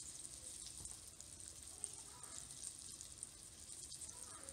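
Breaded fish fillets deep-frying in a pot of hot oil: a faint, steady sizzle with fine crackling.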